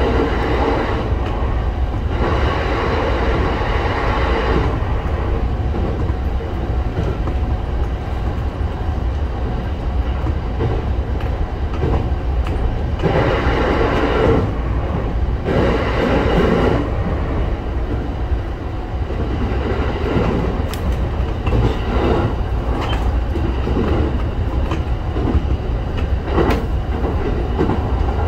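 Local electric train running along the line, heard from inside the front of the train: a steady rumble of wheels on rail, swelling louder for a few seconds twice.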